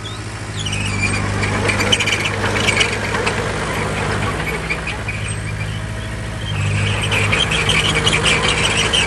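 Crawler bulldozer's diesel engine running steadily, with its steel tracks squealing and clanking. The squeal weakens early on and comes back strongly about six and a half seconds in.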